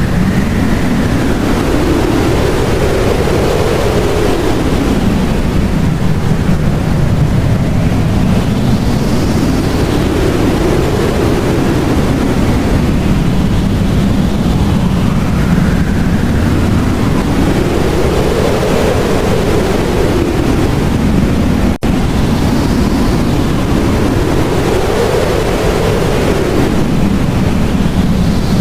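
Blizzard wind blowing hard and steadily with a deep rumble, its gusts whistling up and down in pitch every five or six seconds. The sound cuts out for an instant about 22 seconds in.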